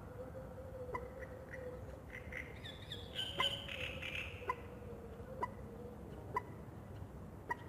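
Birds calling at dawn by a lake: a short sharp call repeats about once a second, and a brief burst of higher calls comes about three seconds in. A steady faint hum runs underneath.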